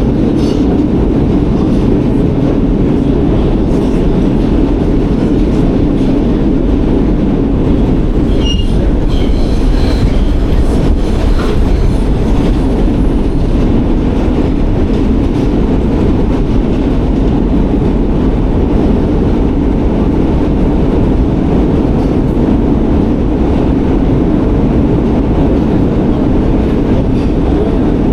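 New York City subway train running: a steady, loud rumble of wheels on rails, with a few faint, brief wheel squeals about eight to eleven seconds in.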